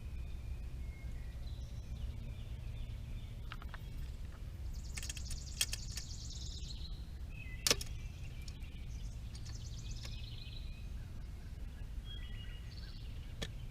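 Scattered clicks and knocks of scooter parts being handled during assembly, the sharpest about eight seconds in, over a steady low background rumble.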